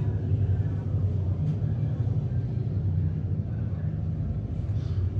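Steady low engine rumble with faint scattered sounds above it.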